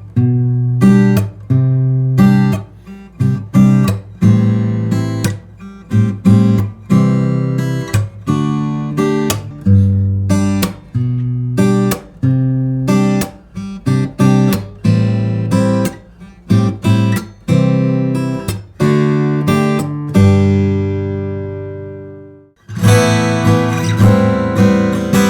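Steel-string acoustic guitar played fingerstyle, plucked notes and chords each ringing out in a slow phrase. A final chord rings and fades for about two seconds, then a fuller passage starts near the end. Recorded raw, with no equalisation or compression.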